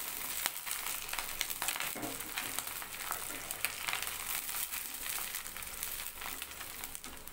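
Curry leaves and food frying in hot oil in a nonstick pan: a steady sizzle full of small crackles, stirred with a wooden spatula.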